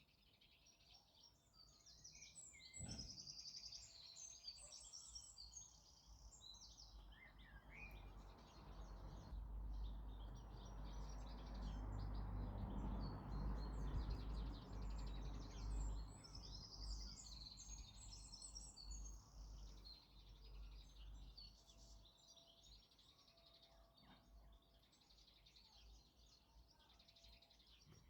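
Songbirds chirping and singing in quick twittering phrases, busiest near the start and again in the second half. A low rumble swells up and fades away in the middle.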